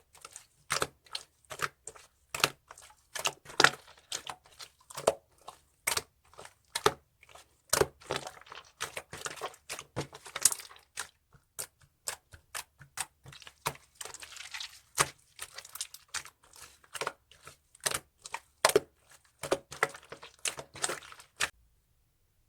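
Slime being squished and pressed by hand, popping and crackling with irregular sharp clicks of trapped air, two or three a second, stopping suddenly about a second before the end.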